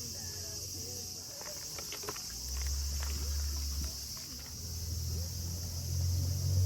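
Crickets chirping in a steady high-pitched chorus, with a few light clicks and knocks about one to three seconds in and a low drone swelling near the end.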